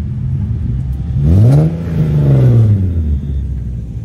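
Nissan 370Z's V6 revving once as the car pulls away: the engine note climbs quickly about a second in, holds briefly, then falls back over the next second, over the low idle rumble of other cars.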